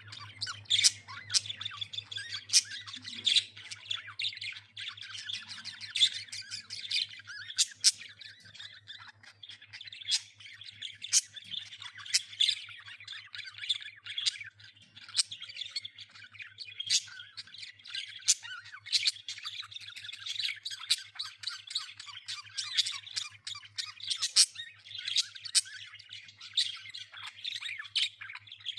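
A group of budgerigars chattering and squawking nonstop, with frequent sharp, high calls over a dense warbling chatter. A steady low hum runs underneath.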